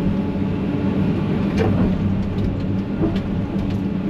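Vehicle engine running steadily with a low hum, with a couple of short knocks or rattles.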